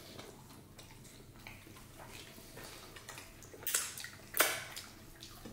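Tableware handled during a meal: soft scrapes and clicks, then two sharper clinks of a utensil against a dish, about three and a half and four and a half seconds in, the second the louder.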